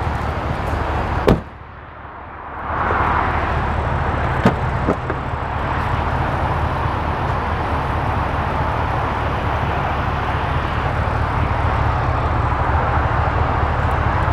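A door of a GMC Yukon Denali shuts with a single thump about a second in, followed a few seconds later by two light clicks, over steady outdoor background noise with a low rumble.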